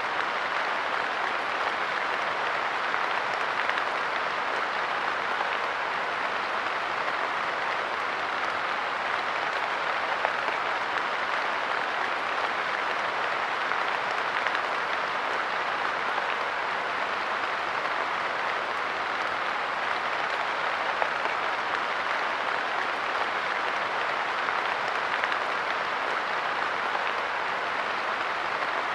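Steady light rain pattering on a park bench, a dense even hiss of drops with no change in intensity.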